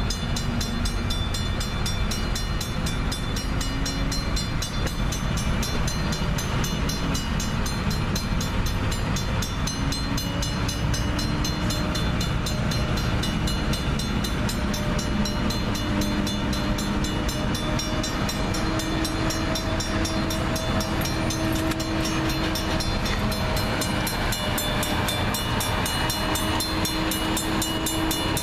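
Double-stack container train rolling slowly in reverse through a grade crossing: a steady rumble of wheels on rail, with long faint tones that drift slowly in pitch and a fast, even ticking high up. It grows a little brighter in the last few seconds as the locomotive comes past.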